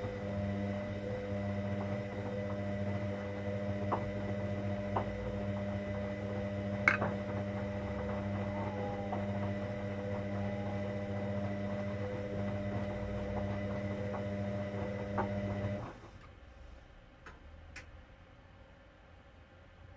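Hoover Dynamic Next washing machine humming steadily, with a few light clicks, then cutting off abruptly about 16 seconds in.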